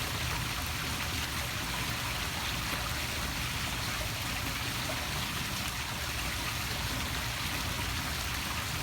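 Poolside waterfall splashing steadily into the pool, an even rushing of falling water.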